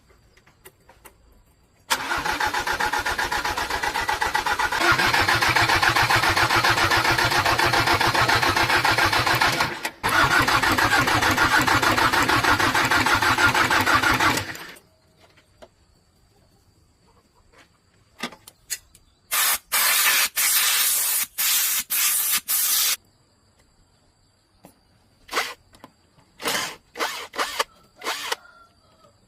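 Old tractor's single-cylinder diesel engine catches and runs with a steady rhythmic knock for about twelve seconds, picking up a few seconds in, then shuts off. Several short hissing bursts and scattered knocks follow.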